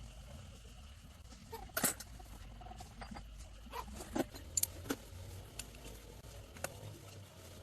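Scattered sharp clinks and knocks of metal tools and parts being handled, the loudest about two seconds in, over a low steady hum.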